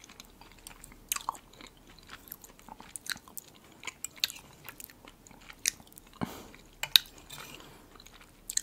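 Close-miked eating: soft chewing and wet mouth sounds, broken by scattered sharp clicks, the loudest about seven seconds in.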